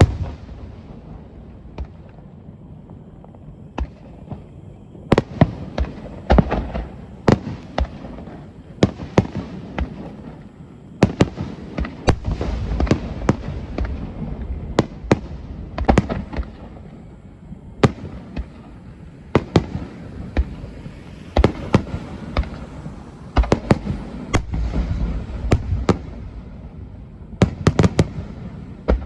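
Aerial fireworks shells bursting, many sharp bangs in irregular clusters, each echoing away, with crackle between the bursts.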